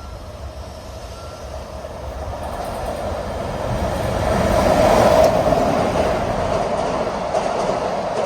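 JR Freight EF210 electric locomotive hauling a container freight train through a station without stopping. The rumble builds over about five seconds, peaks as the locomotive goes by, then carries on as the steady rolling of the container wagons.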